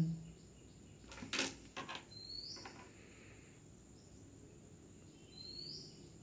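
A mostly quiet room with two short rising chirps, one about two seconds in and one near the end, typical of a small bird calling outside. A few faint knocks a little after a second in.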